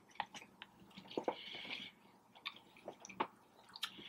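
A person chewing food close to the microphone: soft, irregular mouth clicks and smacks, with a brief wet, squishy stretch a little past a second in.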